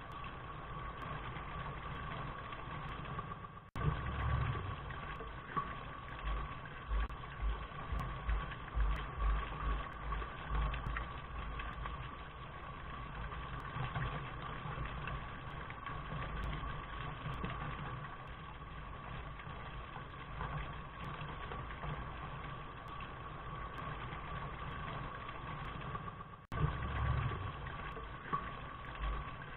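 Steady rain noise with a fluctuating low rumble, from a looped recording. It briefly drops out and restarts about four seconds in and again near the end.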